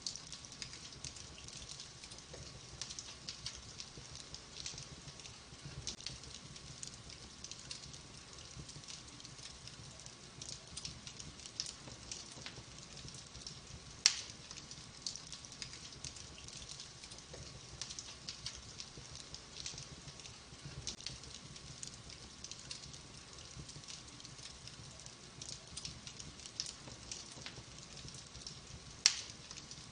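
Wood fire in a fireplace crackling steadily, with many small snaps and one sharp, loud pop about halfway through and another near the end.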